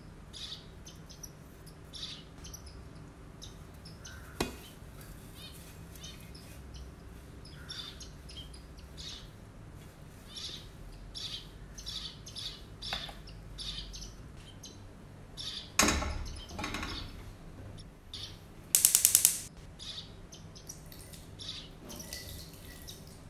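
Small birds chirping on and off in the background, with a loud single knock about two-thirds of the way through and a brief burst of rapid clicking a few seconds after it.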